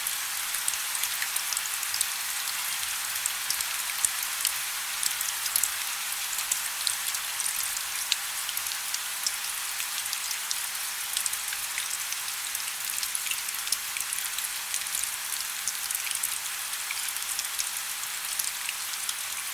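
Wood fire burning in a fireplace, crackling continuously: a steady hiss with many small, sharp pops scattered throughout.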